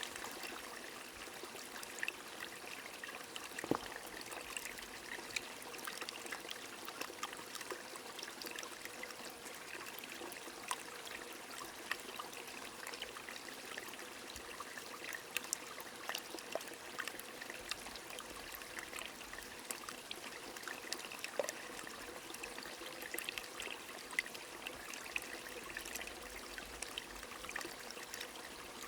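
A small stream trickling steadily under light rain, with many scattered small drip and droplet ticks over an even watery hiss.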